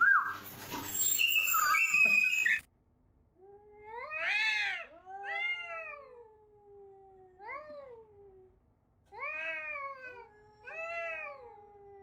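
A loud, jumbled noise cuts off suddenly about two and a half seconds in. Then a cat meows in about five long, drawn-out calls, each rising and then falling in pitch, with a fainter trailing tone between the calls.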